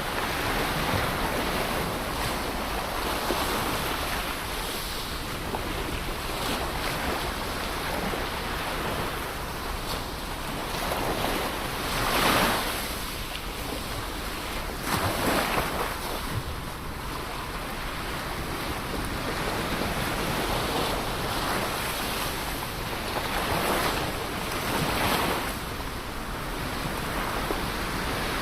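Ocean waves breaking on the shore in a continuous wash of surf, with louder surges about 12 and 15 seconds in, the first the loudest.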